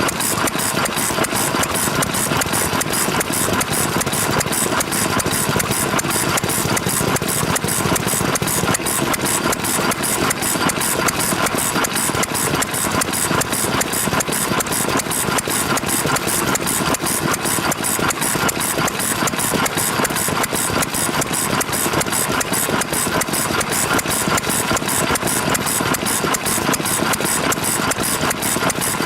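Vintage Japanese stationary engine (hatsudoki) running steadily at idle, firing in a fast, even rhythm.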